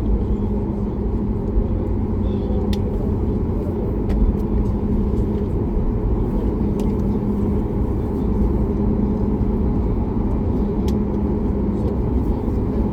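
Steady cabin rumble inside a Boeing 737 MAX 8 taxiing, with engine and airflow noise and a constant low hum, broken by a few faint ticks.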